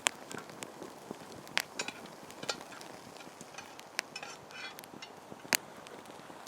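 Wood campfire crackling, with sharp irregular pops over a steady low hiss and a couple of brief rattling patches.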